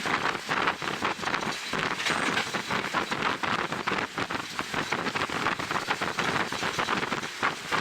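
Wind buffeting the microphone of a camera on a moving passenger train, a loud rushing noise with rapid, irregular gusts over the running noise of the train.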